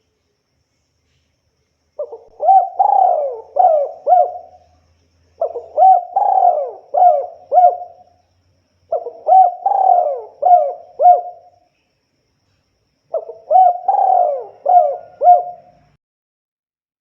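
Spotted dove (tekukur) cooing: four phrases of about five notes each, about a second into the phrase rising and then falling, the phrases coming every three to four seconds with short silences between.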